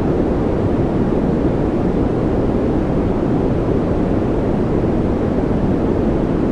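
Continuous white-noise track: a steady, even rush of noise with no changes, weighted toward the low end so it sounds deep and rumbling rather than hissy.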